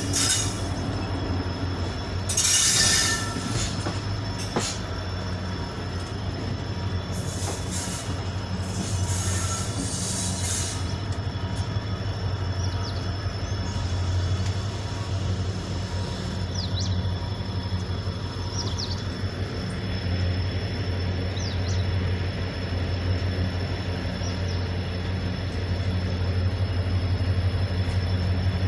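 Indian Railways train running on the rails: a steady low rumble, with bursts of hissing noise about three seconds in and again around eight to eleven seconds in, and a few short high wheel squeaks a little after the middle.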